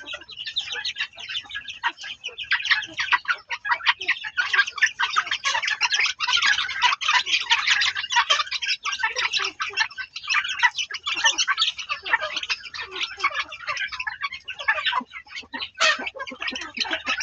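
Many birds calling at once: a dense, unbroken chatter of short, high calls that thickens about two seconds in.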